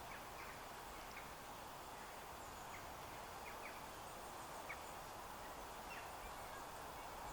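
Faint outdoor ambience: a steady low background hiss with faint, short bird chirps now and then.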